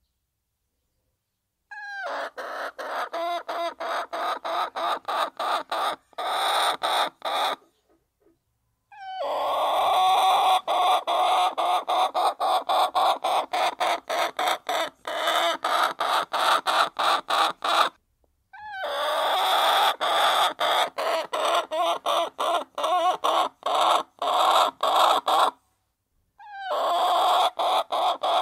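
A flock of hens clucking continuously. The sound starts and stops abruptly, with a few short silences between stretches.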